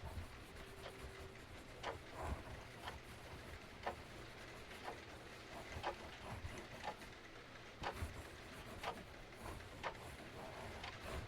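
Steady rain hiss with a clock ticking about once a second and a fireplace crackling now and then underneath.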